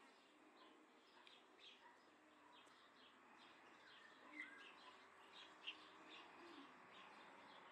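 Faint songbird chirping: many short, high chirps repeating a few times a second, with a couple of louder whistled notes between four and six seconds in.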